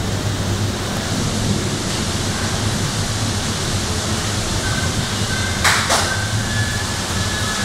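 Steady rush of storm rain and wind. Two short knocks come close together about six seconds in.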